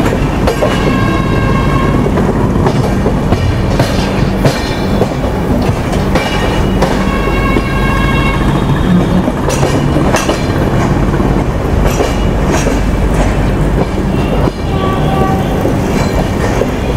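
Indian passenger train coaches rolling into a station over points and rail joints, heard from aboard: a steady low hum with wheel clicks and clacks. A high ringing tone sounds three times: near the start, around six seconds in, and near the end.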